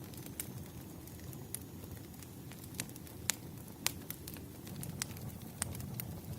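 Bonfire crackling: a steady low rumble of burning with irregular sharp pops and snaps, the loudest a few in the middle.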